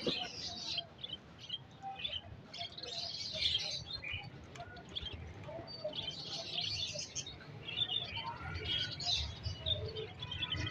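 Budgerigars chirping and warbling, many short high notes overlapping in a continuous chatter.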